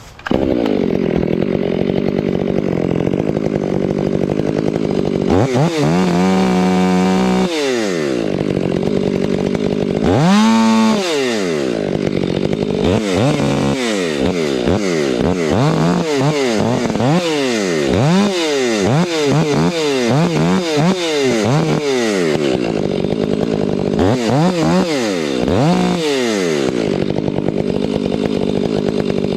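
Two-stroke chainsaw starting up just after the start and running loud, its engine revving up and dropping back again and again as it cuts into silver maple wood.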